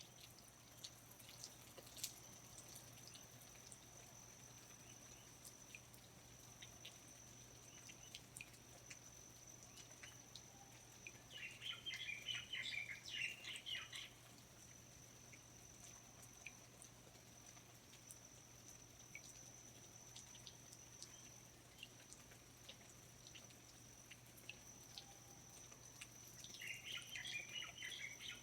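Faint rainforest ambience: scattered water drips over a steady high whine, with two bouts of bird song, about eleven seconds in and again near the end.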